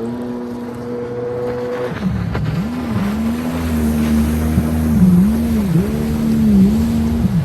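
Yamaha WaveRunner GP 1300R jet ski's three-cylinder two-stroke engine running hard under way, holding a steady high pitch and then, about two seconds in, dipping and recovering in pitch roughly once a second as the revs rise and fall.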